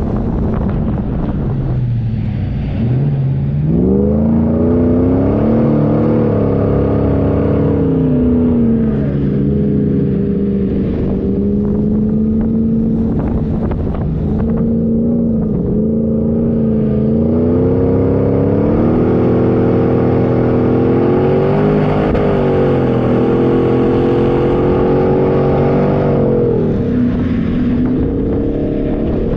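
4x4 engine running under changing throttle, its pitch rising and falling over a steady rumble. It revs up sharply about three seconds in, eases off, climbs again about two-thirds through, and drops back near the end.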